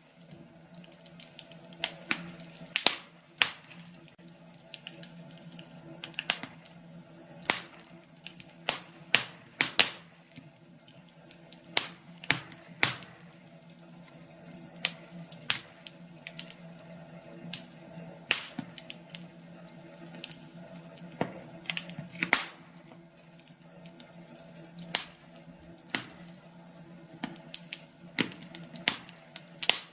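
Wood fire crackling, with sharp irregular pops and snaps at uneven intervals over a faint steady hum.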